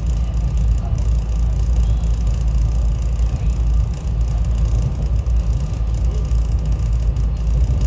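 SEPTA Regional Rail train heard from inside the car while running, a steady low rumble of wheels and motors on the track.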